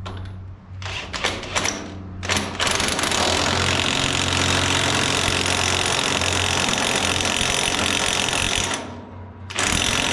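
Power impact wrench driving a bolt down to draw a part into place: a few short trigger bursts, then a continuous run of about six seconds, a brief pause near the end, and it starts again.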